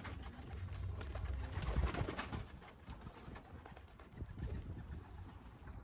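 Racing pigeons cooing, with a low rumble of wind on the microphone through the first two seconds or so.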